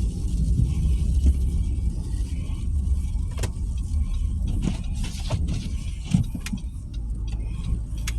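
Car cabin noise while driving on snowy roads: a steady low rumble of engine and tyres, with a few sharp ticks.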